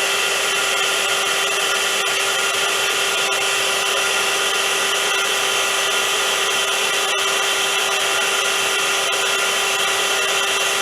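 Vacuum cleaner running continuously: a steady motor whine over an even rush of air, with no change in speed.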